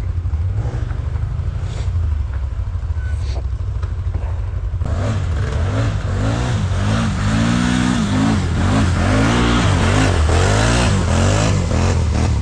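ATV engine running with a low, steady rumble, then from about five seconds in revving up and down over and over and getting louder.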